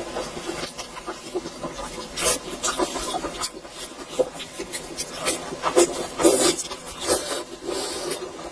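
Close-up eating sounds: wet chewing, smacking and biting in an irregular run of short noisy bursts, loudest about six seconds in.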